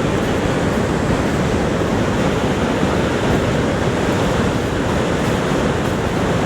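Niagara Falls' water pouring down in a steady, unbroken rush, loud and even throughout, with most of its weight in the low range.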